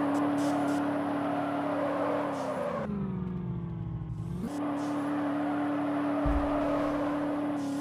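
Vehicle engine running at a steady pitch. About two and a half seconds in, the pitch sinks and the sound turns dull for under two seconds, then snaps back up to the same steady note. A low thump comes about six seconds in.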